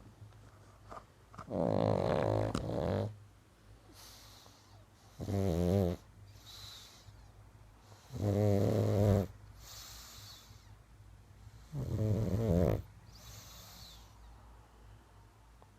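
Sleeping dog snoring: four loud, pitched snores about every three and a half seconds, each followed by a softer breathy puff as it breathes out.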